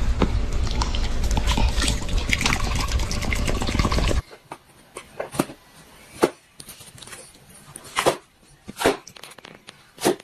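A loud steady noise for about four seconds. After a sudden cut, a dog gives about five short barks, spaced a second or so apart.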